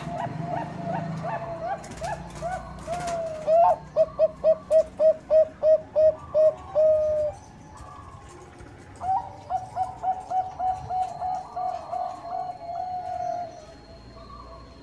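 Zebra dove (Thai-bred 'Bangkok' perkutut) singing: a run of quick, short coos that ends in a longer held note, then after a short pause a second run of quick coos.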